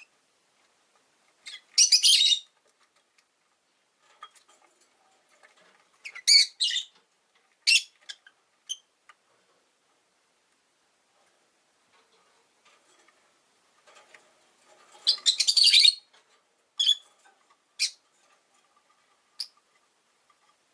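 Pet rosy-faced lovebirds chirping: several short bursts of sharp, high-pitched calls. The longest and loudest burst comes about two-thirds of the way through, and single chirps follow near the end.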